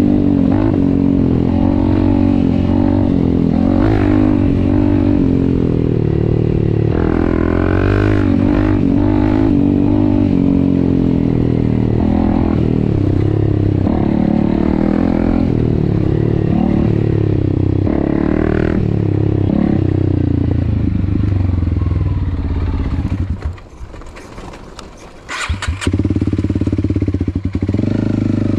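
Honda CRF300L's single-cylinder four-stroke engine running under way on a dirt trail, its pitch rising and falling with throttle and gear changes. About three-quarters through the engine note falls away for a couple of seconds as the bike slows, then settles into a steadier, lower running note.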